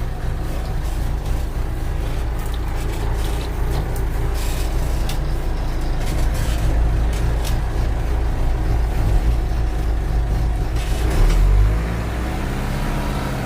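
Backhoe engine running steadily under work, with a brief louder surge about eleven seconds in and a shift in the engine note near the end.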